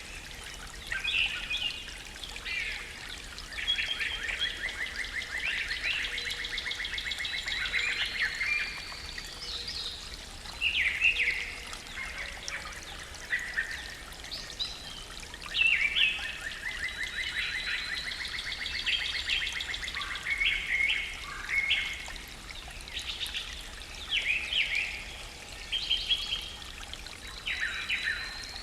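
Songbirds singing in a morning forest chorus: overlapping chirps and short whistled phrases, with a rapid, even trill that comes twice and lasts about four seconds each time.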